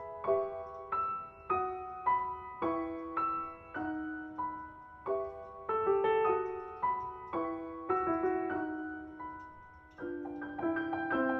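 Background music: slow solo piano, single notes about twice a second, each ringing and dying away, growing busier near the end.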